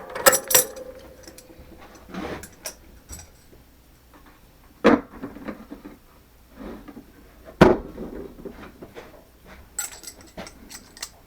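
Scattered knocks and metallic clicks of tooling and a workpiece being handled and taken out of a milling machine's collet, a few separate sharp knocks with the loudest a little past halfway.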